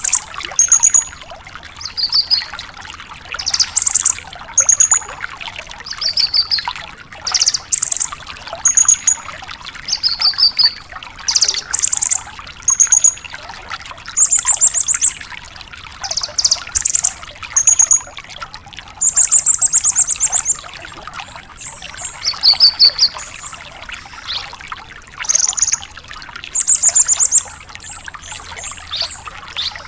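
Branjangan (bush lark) singing energetically: short, high, clipped phrases and fast trills, one after another about once a second, over a steady hiss like trickling water.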